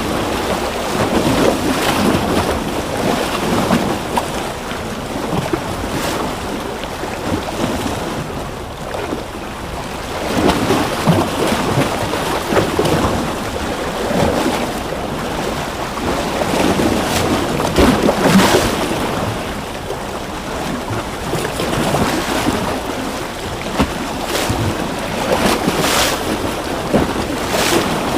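Ocean surf: waves breaking and washing in continuously, swelling and easing every several seconds, with sharp splashes here and there and some wind noise.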